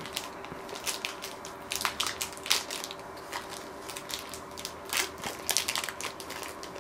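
Trading-card pack wrappers crinkling and crackling in the hands as the packs are handled and torn open, in scattered sharp crackles.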